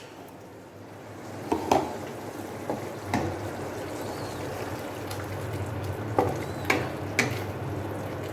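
Onion and spice paste sizzling and bubbling in a cooking pan, with a spoon knocking and scraping against the pan about six times.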